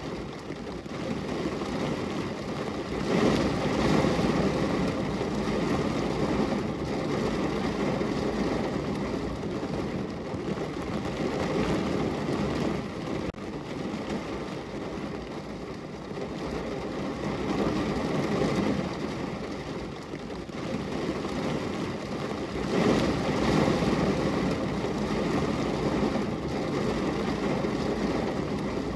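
Steady rain falling on a window, an even rushing noise that swells louder about three seconds in and again about twenty-three seconds in.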